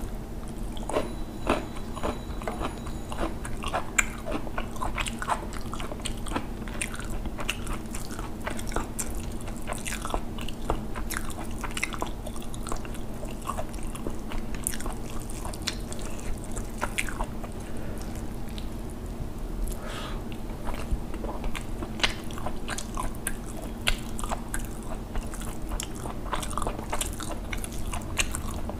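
Close-miked chewing and mouth sounds of a man eating rice and fish curry, with many irregular wet clicks and smacks. A steady low hum runs underneath.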